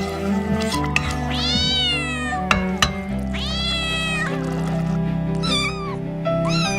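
Kitten meowing over background music: two long, arching meows in the first two-thirds, then two shorter ones near the end. Two sharp clicks fall between the first two meows.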